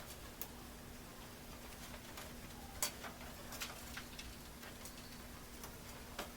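A few sharp, light clicks and taps, spread out, from computer parts being handled and fitted, over a faint steady hum.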